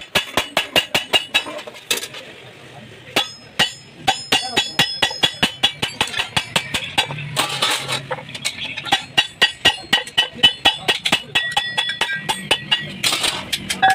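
Hammer striking sheet metal in quick repeated blows, about five a second, each with a short metallic ring, with a brief pause about two seconds in.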